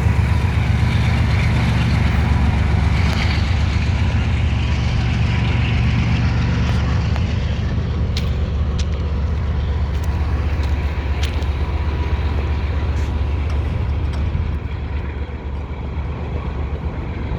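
Freight train rolling past: a steady low rumble with a few sharp clicks, easing off a little near the end.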